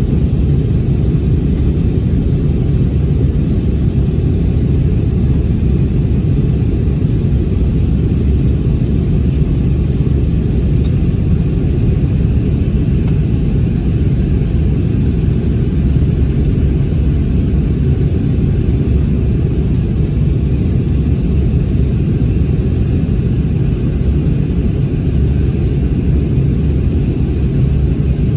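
Airbus A321 cabin noise in flight: a steady, loud low rumble of the jet engines and airflow past the fuselage, heard inside the cabin, with a fainter even hiss above it.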